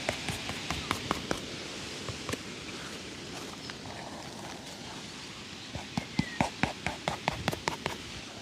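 Sharp taps and clacks of shoe-shine work on a shoe, a few in the first second and a quicker run of about four a second from about six seconds in, over steady background noise.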